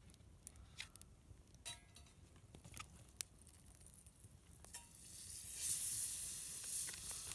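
Butter in a hot frying pan, starting to sizzle as it melts. The sizzle builds from about halfway in, after a few light clicks and knocks.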